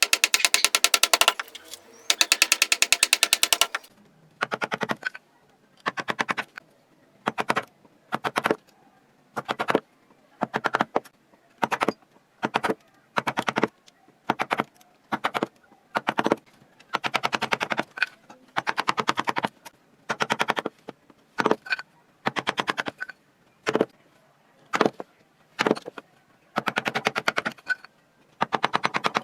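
A power carving chisel hammering into wood in bursts of very rapid strikes: two long runs in the first few seconds, then many short bursts with brief pauses between them.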